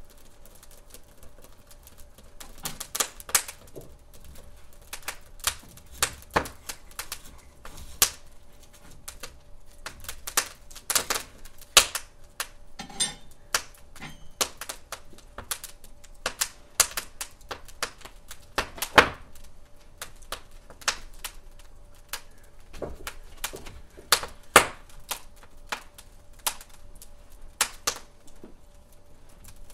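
Wood fire crackling in a hearth: irregular sharp pops and snaps of burning logs, some louder than others, over a faint steady hum.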